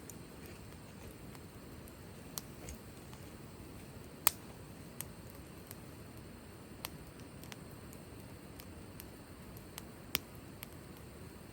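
Wood fire burning with sparse, irregular crackles and pops over a soft low rumble of flame, the sharpest pop about four seconds in and another near the end.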